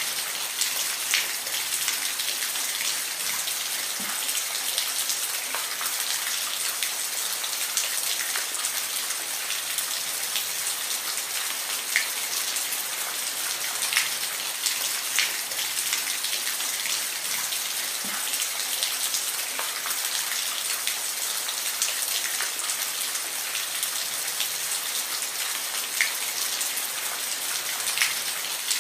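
Steady rain falling, a dense even hiss with scattered sharper drops ticking at irregular moments.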